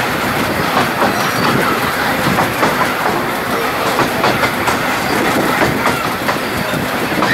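Narrow-gauge heritage train running along the line, its wheels clattering over the rail joints with a steady rattle and frequent sharp clicks.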